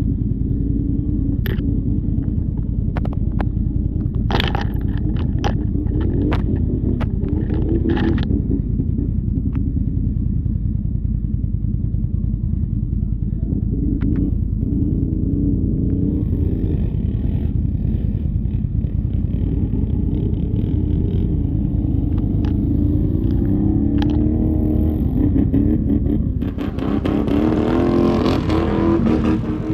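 Off-road vehicle engine running steadily, with a cluster of sharp clattering knocks in the first few seconds. The engine revs up and down several times near the end.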